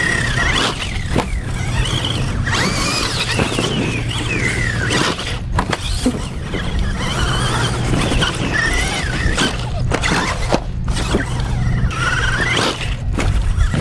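Axial SMT10 radio-controlled monster truck driving, its electric motor and drivetrain whining and rising and falling in pitch again and again with the throttle. Scattered sharp knocks come from the truck bouncing and landing.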